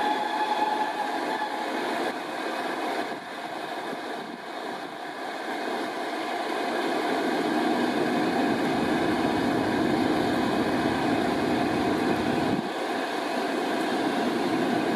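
English Electric Class 20 diesel locomotive running, a steady engine note with several held tones over a rumbling train noise, growing louder from about halfway through.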